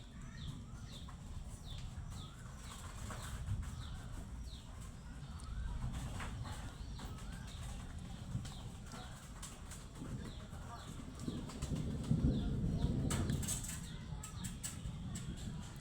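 A small bird calling over and over with short, high, falling chirps, about two a second, over a steady low rumbling noise, with a few sharp clicks near the end.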